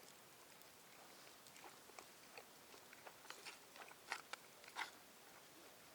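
Faint chewing with short crunchy bites, a handful of sharper crunches clustered a little past the middle.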